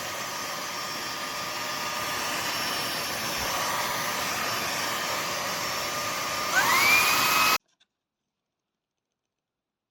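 Ultenic U20 cordless stick vacuum's motor running with a steady whine. Near the end it speeds up, getting louder with a rising pitch, then the sound cuts off abruptly.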